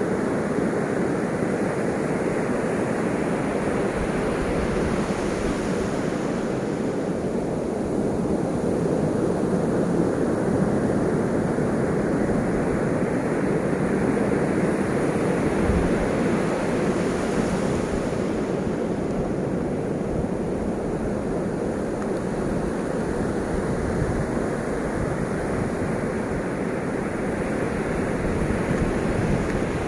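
Ocean waves breaking and washing on the shore in a continuous surf, swelling and easing slowly every several seconds.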